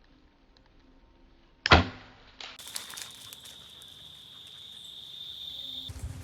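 Compound or recurve bow shot: one sharp, loud snap of the string release and arrow about two seconds in, then a fainter click. A steady high-pitched tone follows for about three seconds.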